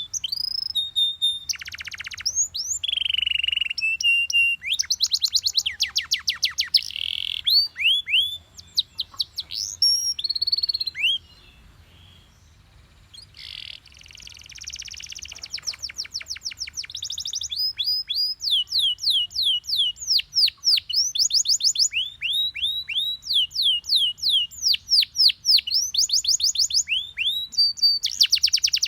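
Yellow Belgian canary singing: fast trills of repeated, sharply falling whistled notes, with a lull of about two seconds near the middle before the trilling resumes.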